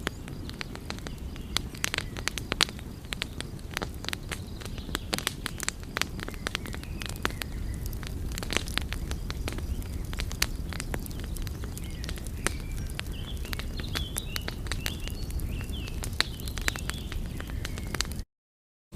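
Wood fire crackling, with frequent sharp pops and snaps over a steady low rush of burning. The sound cuts out suddenly near the end.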